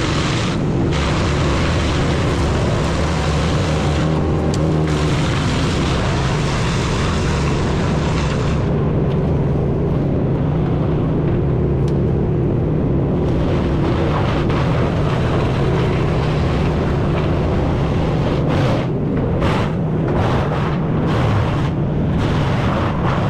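Heavy wood chipper running loud and steady, its engine droning under a dense grinding rush of wood being chipped. The rush thins out for a few seconds midway and breaks up briefly near the end.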